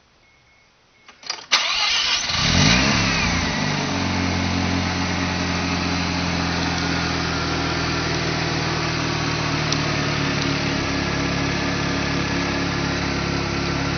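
Mazda RX-7 FD3S's twin-rotor 13B rotary engine, freshly rebuilt, starting through an aftermarket downpipe and exhaust: a few clicks about a second in, it catches, flares up briefly and settles into a steady idle.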